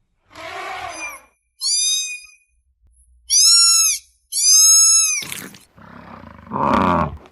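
A quick series of separate animal calls: a short rough call, then three clear, high calls that arch up and down in pitch, a sharp click, and a lower, rougher call near the end.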